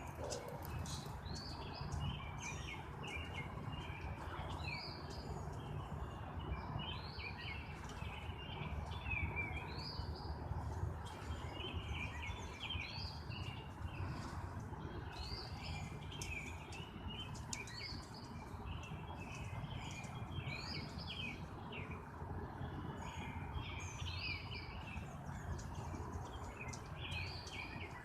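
Songbirds singing, with a short song phrase repeated every two to three seconds among other calls, over a steady low rumble.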